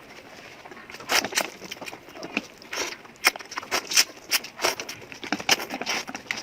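A person eating noodles and fried food up close: chewing with irregular wet smacks and crunches, starting about a second in.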